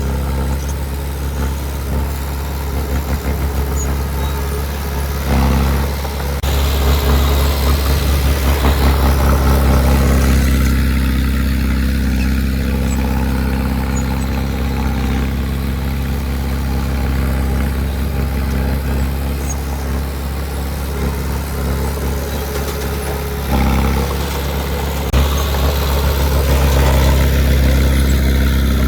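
Diesel engine of heavy earthmoving equipment running steadily under load, with a low, even drone. It gets louder about six seconds in and again near the end.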